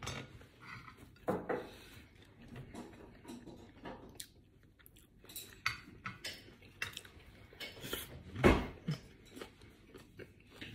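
Close-up chewing and mouth noises of a person eating, with chopsticks clicking against a ceramic bowl. A louder bump comes about eight and a half seconds in.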